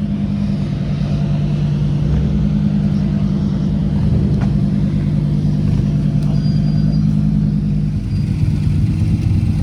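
A car engine running steadily at idle close by, its pitch holding level, with a slight change in its note near the end.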